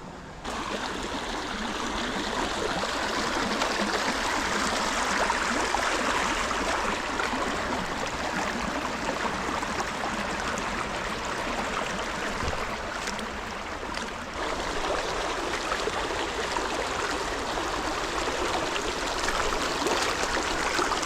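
Fast-flowing creek water rushing steadily over rocks, high and swift after a storm. It comes in suddenly just after the start.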